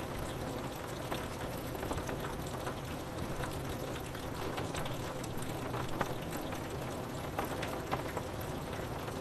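Steady rain falling on window glass, a constant hiss with many separate drops ticking sharply against it.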